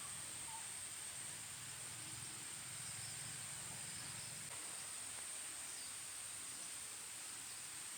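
Steady high-pitched drone of insects such as crickets or cicadas over a faint hiss, with a low murmur that stops about halfway through and a few faint chirps.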